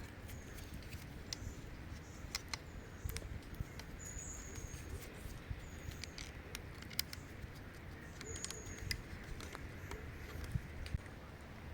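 Forest ambience: a bird gives short, high, slightly falling chirps every second or two, over a low steady rumble with scattered sharp clicks and ticks.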